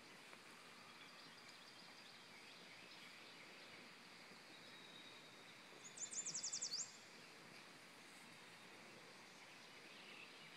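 Faint steady background hiss. About six seconds in, a bird sings one quick trill of about eight falling high notes, lasting under a second.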